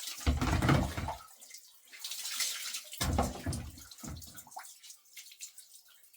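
Bath water being poured and splashing in a small room, in bursts: one about a second in, then two shorter ones around three and four seconds, with dripping between them.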